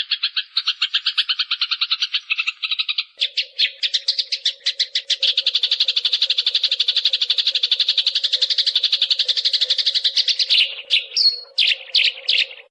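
Eurasian tree sparrow chattering in a rapid, unbroken run of high chirps, played sped up as a bird-tutor track. About three seconds in the run changes to a new section with a faint steady low hum beneath it. Near the end it breaks into separate chirps and then cuts off abruptly.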